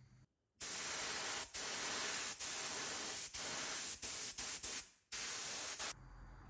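Paint spraying: a loud steady hiss lasting about five seconds, broken by several very short pauses and one brief break near the end.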